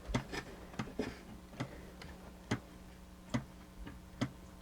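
Gear mechanism of a mechanical animated display clicking as it is worked by hand: a run of sharp separate clicks, several close together at first, then about one a second.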